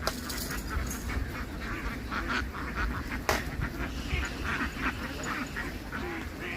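A large flock of domestic ducks quacking continuously in a dense chorus, over a low rumble, with one sharp knock about three seconds in.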